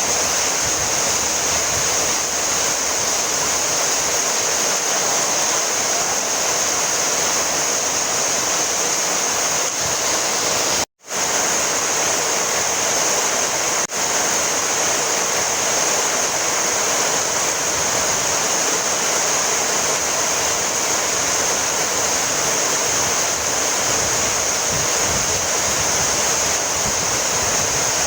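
Heavy rain falling steadily, an even dense hiss with no breaks in its rhythm. About eleven seconds in the sound cuts out abruptly for a fraction of a second, and it dips briefly a few seconds later.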